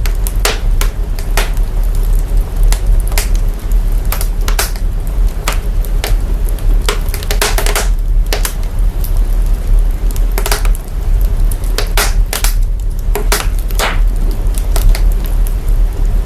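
Wood fire crackling, with irregular sharp pops and snaps, some in quick clusters, over a heavy, steady sub-bass rumble brought out of the fire sound by signal processing.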